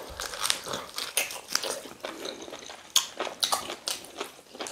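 Two people biting and chewing pieces of boiled chicken off the bone, eaten by hand: an irregular run of short mouth clicks and smacks.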